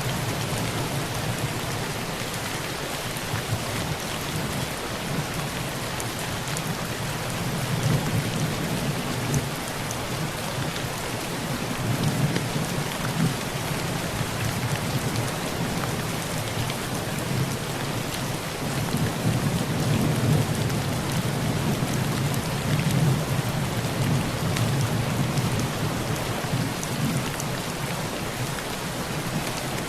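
Heavy rain falling on a tin roof, a steady hiss, with low rolls of thunder that swell and fade several times, strongest around a third of the way in and again past the middle.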